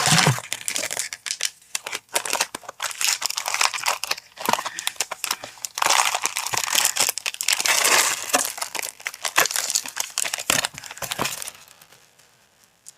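Packaging being unwrapped and handled by hand, with a dense, continuous crinkling and rustling that dies away near the end.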